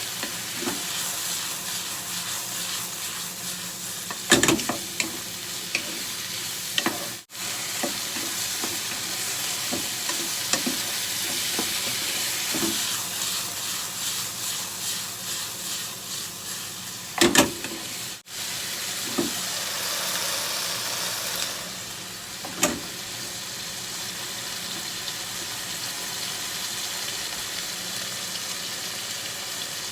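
Food sizzling in a frying pan while being stirred, with a few sharp knocks of the spatula against the pan.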